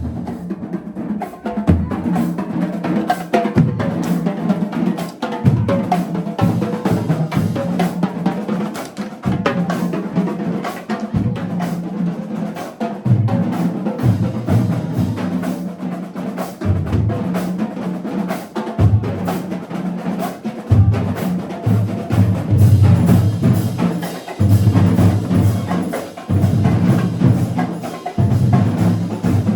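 Marching band drumline playing a loud, driving cadence, with rapid snare strokes over heavy bass drums.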